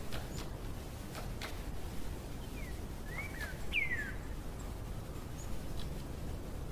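A bird giving a few short chirps that fall in pitch, about halfway through, over a steady low background rumble, with a few faint clicks in the first second and a half.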